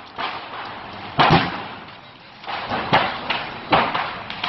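Commercial fireworks going off inside a burning building: an irregular string of sharp bangs, about six in four seconds, the loudest about a second in, over the steady noise of the fire.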